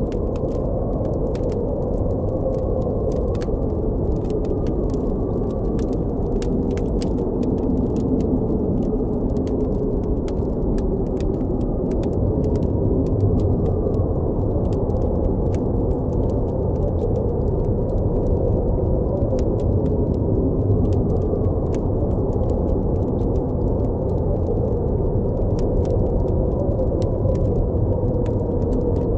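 Blizzard wind: a steady low rush with faint wavering howls, under a campfire's crackle of scattered sharp pops.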